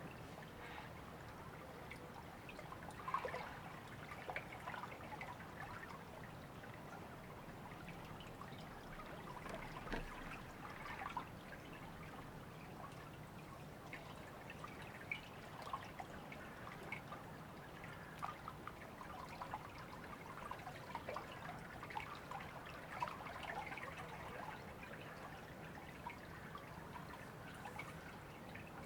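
Faint trickling and babbling of a small river, with many small irregular splashes.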